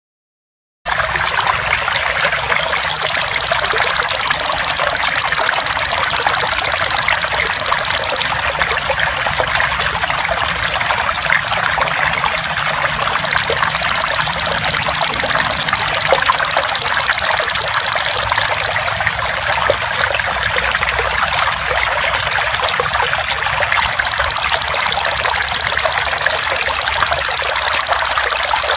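Trickling water runs steadily, starting about a second in. Over it a golden grasshopper (belalang emas) gives a loud, high, fast-pulsed buzzing trill three times, each about five seconds long and roughly ten seconds apart.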